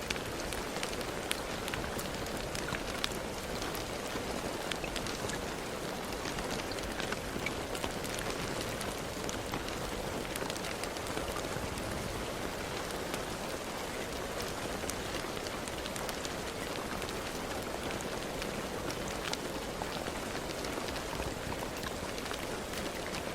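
Steady rain falling on a surface, an even hiss dotted with many sharp individual drop ticks.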